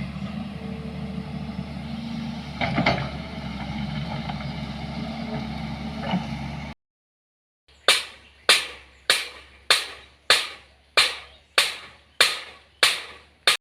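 Steady vehicle running noise with a single knock about three seconds in. The sound then cuts off abruptly, and after a short gap come about ten loud, sharp strikes, evenly spaced at under two a second, each dying away quickly.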